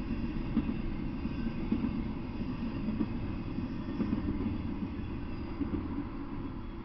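Intermodal freight train passing as its last container cars go by, a steady low rumble that slowly fades as the train moves off.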